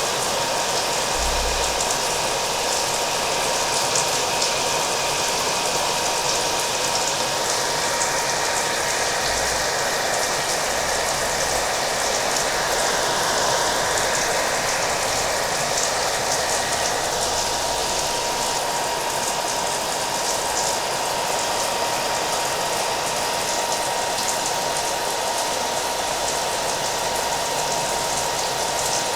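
Hair dryer blowing steadily with a thin, constant whine, mixed with the hiss and patter of rain.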